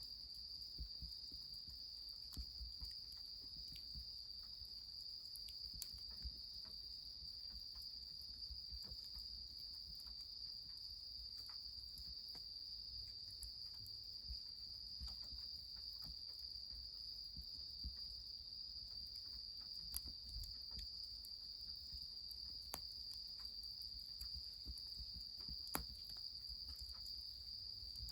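Insects chirring in one steady, unbroken high-pitched drone, with scattered sharp crackles from the wood fire under the bath.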